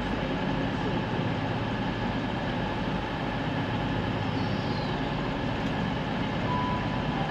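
A train's diesel engine running steadily, a low even hum and rumble that holds level throughout.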